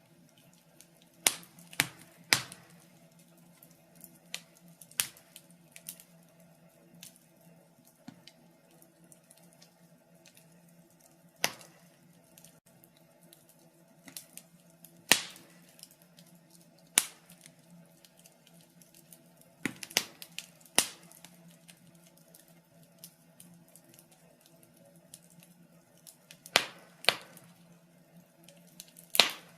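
Wood fire crackling in an open fireplace: irregular sharp pops and snaps, a cluster about a second in and scattered louder ones after, with quiet gaps between, over a faint steady low hum.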